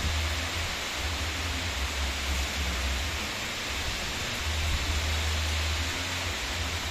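Heavy rain pouring down, a dense steady hiss. A low rumble comes and goes underneath it.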